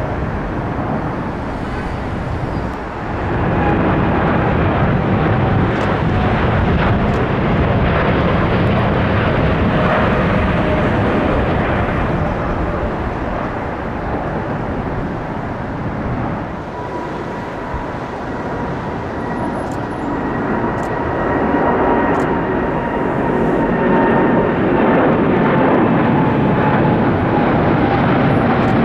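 Jet airliner's engines running loud and close, a continuous roar with faint whining tones that slowly slide lower in pitch as the aircraft passes.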